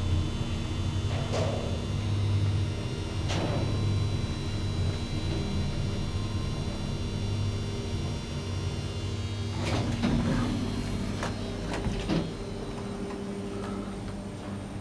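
MacGregor Navire traction elevator in operation: a steady low machinery hum with sharp clicks and knocks from the car and its doors, a cluster of them late on, after which the hum drops and changes.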